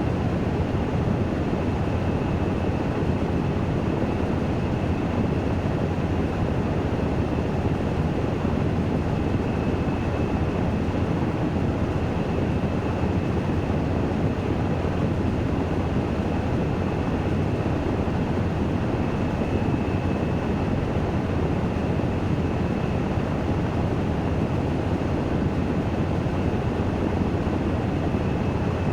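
Washing machine in its spin cycle: a steady, even rumble of the drum turning at speed, with a faint high whine held over it.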